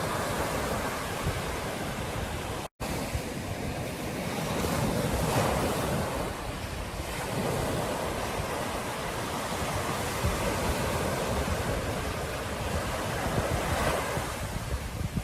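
Ocean surf breaking on a beach, a steady wash of water that swells louder with each incoming wave, with wind buffeting the microphone. The sound cuts out completely for a split second about three seconds in.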